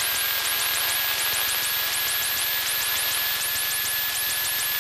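Steady electrical hiss on a light aircraft's cockpit intercom feed, carrying a faint high whine that creeps slightly up in pitch and a rapid train of high chirps, about four a second. The idling engine is only faintly heard beneath.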